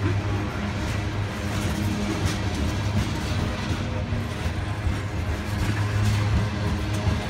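Norfolk Southern freight train running past, with a steady low drone that strengthens near the start and again near the end.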